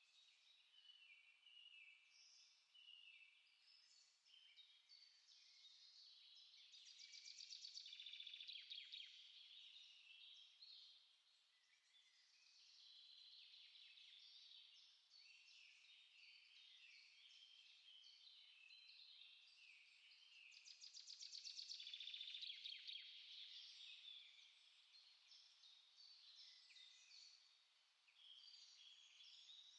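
Small songbirds singing and chirping together in a dense, overlapping chorus, with two louder passages of rapid trilling, about a quarter of the way in and again about three-quarters of the way through.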